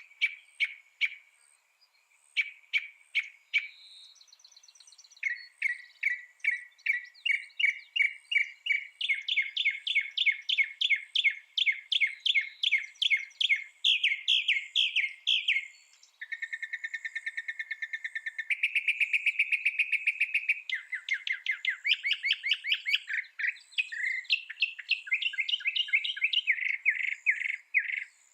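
Mockingbird singing: a long run of varied phrases, each note repeated several times in quick succession before switching to a new one, with some very rapid note series partway through.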